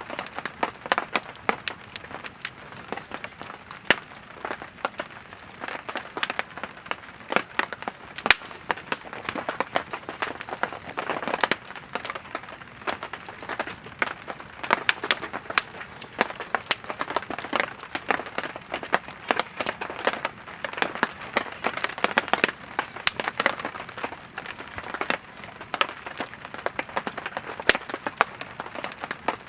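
Wood fire crackling and popping: a steady hiss of burning firewood with many irregular sharp snaps throughout.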